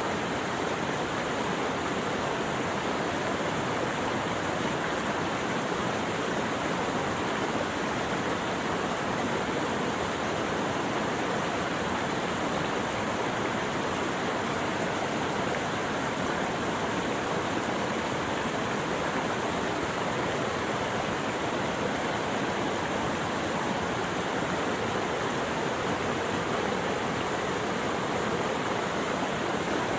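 Steady rushing water, an even and unbroken wash of sound with no changes.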